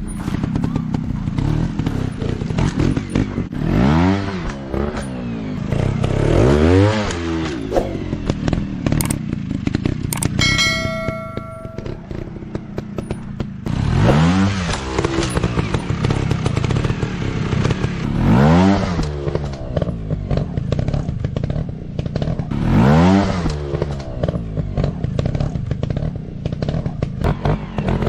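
Motorcycle engine revving repeatedly, its pitch rising and falling every few seconds over a rough, clattering running sound. A brief steady tone sounds near the middle.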